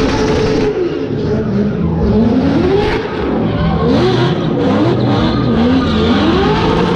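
A stunt car's engine revving hard, its pitch rising and falling over and over as the driver works the throttle, over the hiss of spinning, sliding tyres.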